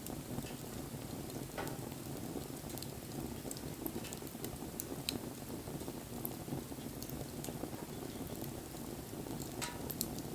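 Wood campfire burning: a steady low rush of flames with scattered small crackles and snaps, and a sharper pop about a second and a half in and another near the end.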